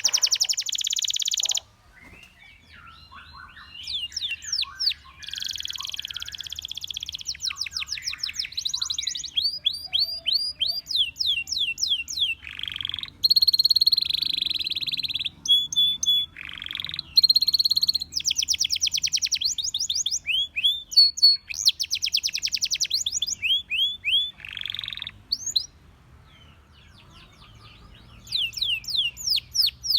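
Domestic canary singing: long phrases of rapid trills and quickly repeated falling notes, high-pitched, broken by two short pauses, about two seconds in and about 25 seconds in.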